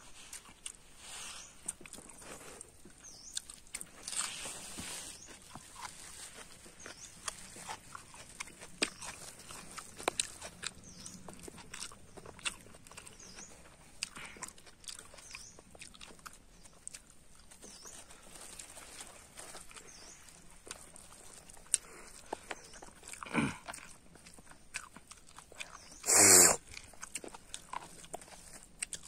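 Close-up mouth sounds of eating rice and curry by hand: wet chewing and lip-smacking clicks. There is a louder, noisier sound lasting about half a second near the end, and a shorter one a few seconds before it.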